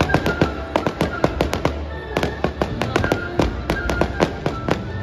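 Fireworks going off in quick succession: a dense run of sharp bangs and crackles, several a second, with music playing underneath.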